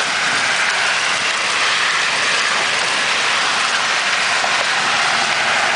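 Large hail, bigger than golf balls, coming down hard: a dense, steady rush of stones hitting.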